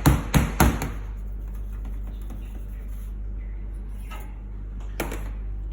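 Three sharp knocks in quick succession in the first second, then a steady low hum, with a single sharp click near the end.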